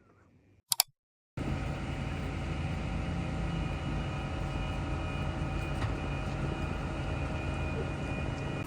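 Two sharp clicks, then a steady mechanical drone starts abruptly, with a low hum and several steady tones, like a vehicle or machine running.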